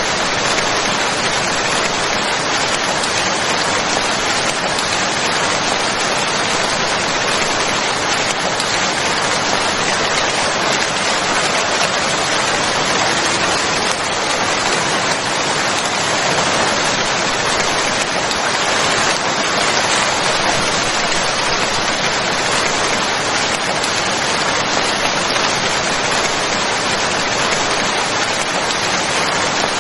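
Rain falling steadily, an even unbroken hiss with no single drops or thunder standing out.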